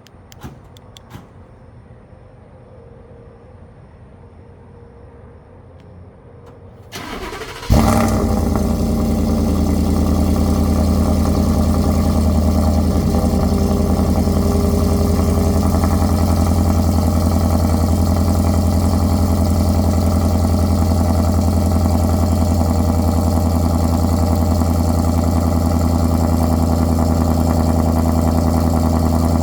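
2019 Ford F-150's 5.0-litre V8 with a cat-deleted exhaust, Corsa Pro Series muffler and stock resonator, started from cold: after a few faint clicks the starter cranks briefly about seven seconds in, the engine catches with a loud flare, then settles into a steady idle.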